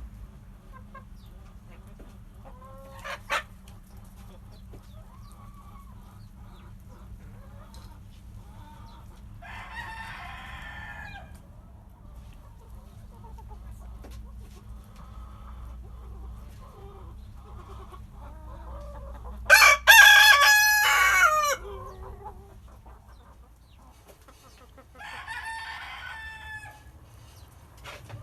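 Roosters crowing three times, the middle crow loud and close, with a short sharp call a few seconds in, over a low steady hum.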